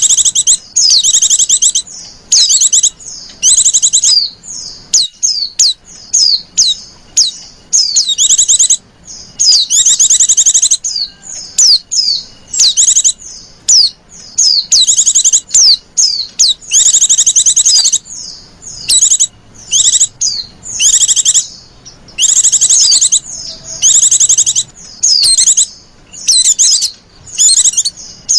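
Female white-eye (pleci, Zosterops) calling in high, fast twittering chirps. The calls come in short bursts one after another with brief pauses between them. It is the coaxing female call that keepers play as a lure for white-eyes.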